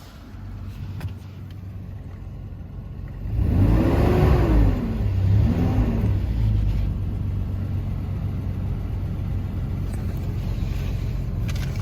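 Toyota Land Cruiser FJ62's inline-six engine idling, revved up once and back down about three seconds in, then given a short blip before settling back to a steady idle.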